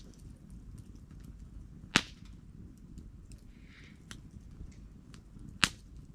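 Wood campfire crackling, with two loud sharp pops about three and a half seconds apart and fainter ticks and snaps between, over a low steady rush of the flames.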